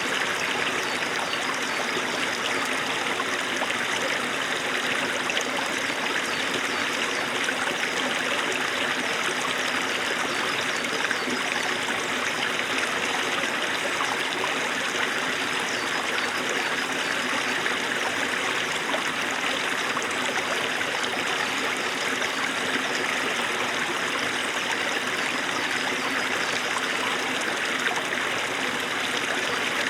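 Small mountain stream of snowmelt water running over stones: a steady, even babble and trickle.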